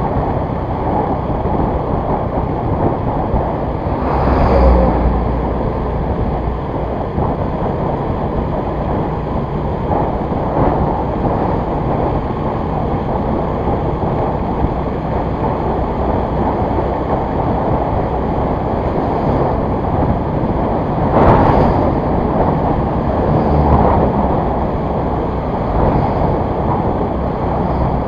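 Steady wind rush on the microphone over a running motorcycle engine while riding, with two louder swells, about four seconds in and again about twenty-one seconds in.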